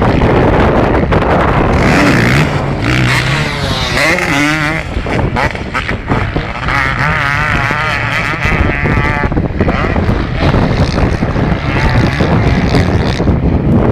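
Motocross bikes racing, their engines revving hard and rising and falling in pitch as they accelerate and pass.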